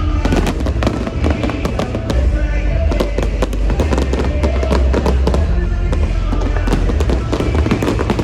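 Fireworks bursting and crackling, many sharp cracks in quick succession, over loud music with a heavy bass.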